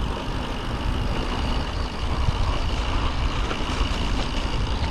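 Mountain bike riding down a snowy trail: steady wind rumble on the on-board camera microphone, with tyre and bike rattle over the ground.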